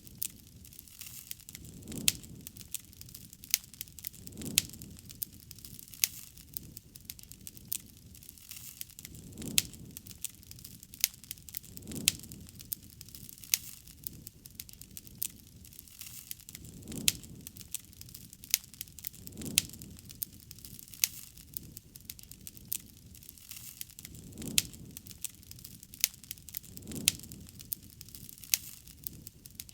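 Wood campfire crackling, with frequent sharp pops and snaps throughout. Soft low swells of the flames come and go every few seconds.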